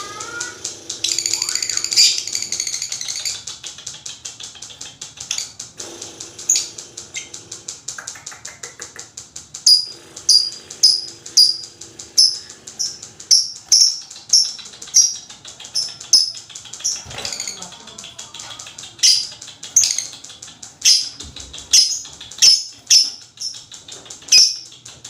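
Lovebirds calling: a fast, fine ticking chatter runs under a burst of loud high chattering about a second in, and from about ten seconds in sharp, high chirps repeat roughly one and a half times a second.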